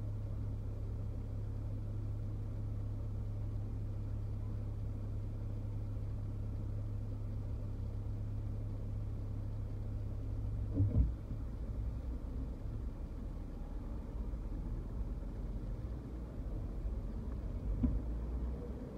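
Car engine idling with a steady low hum, heard from inside the cabin. About halfway through come a couple of short thumps, and the hum then drops lower and turns uneven as the car moves off in slow traffic.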